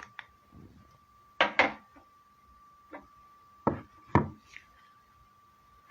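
Workshop handling knocks of tools or parts: a few sharp knocks, two close together about a second and a half in and more around four seconds in, over a faint steady high-pitched tone.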